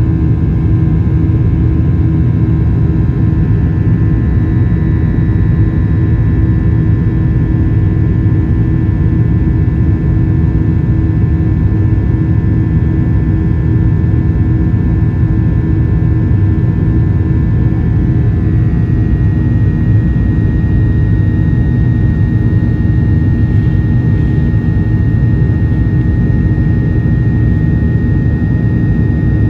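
Cabin noise inside a Boeing 737-800 in the climb after takeoff: its CFM56-7B turbofan engines give a loud, steady rumble under a faint whine. The whine shifts slightly in pitch a little past halfway.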